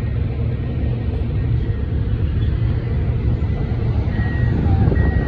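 Double-stack intermodal container train passing through a grade crossing: a steady, loud low rumble of the freight cars' wheels rolling on the rails. A thin high ringing tone comes in about four seconds in.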